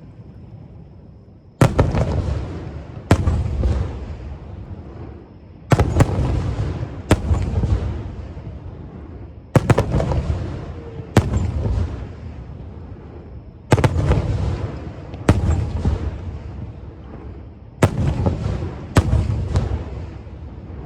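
Aerial firework shells bursting, about ten loud booms coming in pairs roughly every four seconds, each followed by a long rolling echo that dies away.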